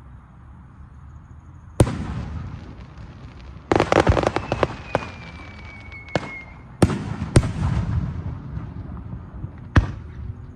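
Aerial fireworks shells bursting: separate sharp bangs a second or more apart, each followed by a rumbling echo, with a dense run of crackling pops about four seconds in and a faint falling whistle after it.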